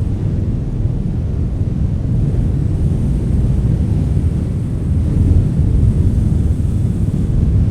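Strong wind blowing as a steady low rumble with no distinct events, swelling slightly in the second half.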